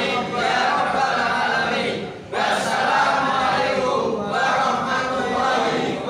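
A congregation of many voices chanting together in unison, with a short pause for breath about two seconds in.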